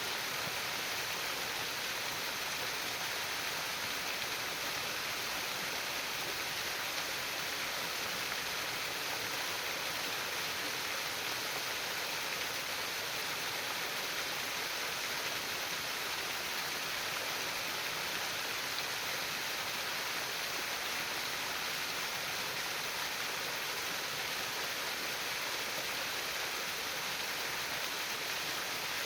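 Running stream water trickling and gurgling steadily, without a break.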